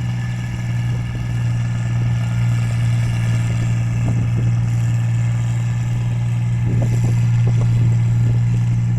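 Rice combine harvester running steadily while cutting paddy: a constant low engine drone with a few brief rattles about four and seven seconds in.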